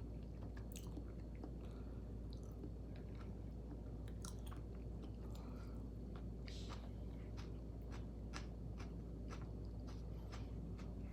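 A person chewing food close to the microphone, with many short wet mouth clicks and smacks, over a steady low hum.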